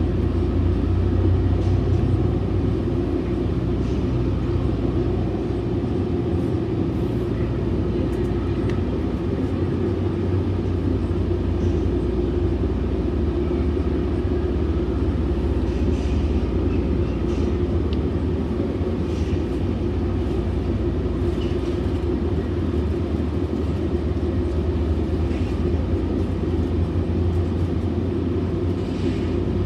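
Steady low rumble of a Metrolink commuter train under way, heard from inside the passenger car, with a few faint clicks from the running gear.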